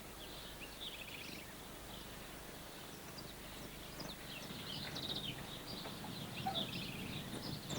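Small birds chirping and trilling faintly in short repeated bursts, over a low steady background hiss.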